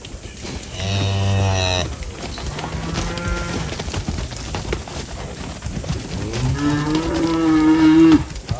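Cattle mooing: three calls, the last one long and the loudest.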